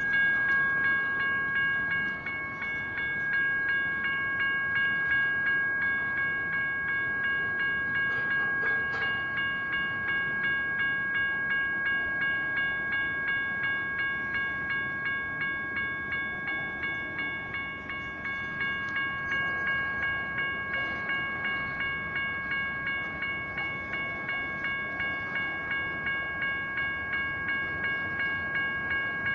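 General Signals Type 1 electronic crossing bell ringing steadily, about two dings a second, each one fading, over the noise of a passing train.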